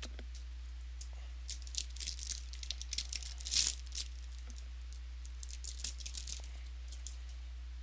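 Trading cards and their pack wrappers being handled: scattered light clicks and crinkles, with a louder rustle about three and a half seconds in, over a steady low hum.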